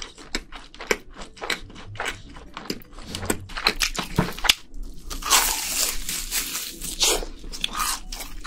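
Close-miked chewing and crunching of crispy fried food, a rapid run of sharp crackles. About five seconds in comes a louder, denser burst of crunching as a crisp-crusted fried cheese ball is bitten into.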